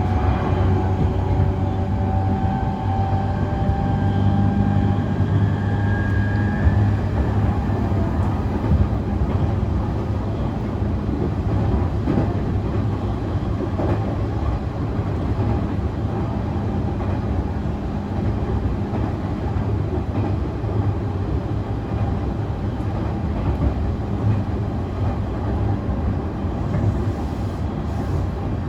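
Running sound of an E531 series electric train heard from inside the car, with its Hitachi IGBT inverter and traction motors giving a whine that rises slightly in pitch over the first several seconds as the train accelerates. The whine then fades into a steady rumble of wheels on rail, with a few light rail-joint clicks.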